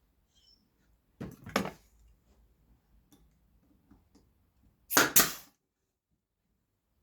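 Brad nailer firing into wood: two quick sharp shots about a second in, and two more about five seconds in.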